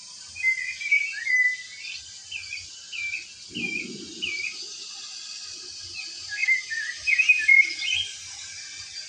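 Small bird chirping in short, quick, falling notes: a burst near the start, a few spaced single chirps, then another burst after a pause, over a steady hiss. A brief low thump comes a little before the middle.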